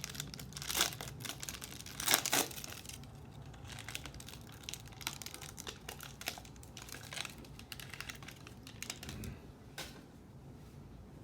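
Trading card pack wrapper being torn open and crinkled by hand, a 1992-93 Upper Deck NBA jumbo pack. The loudest crinkles come in the first two and a half seconds, followed by lighter, scattered crackling.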